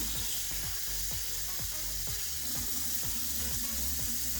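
Tap water running steadily as a washable Dyson vacuum filter is rinsed under it, over background pop music with a steady beat.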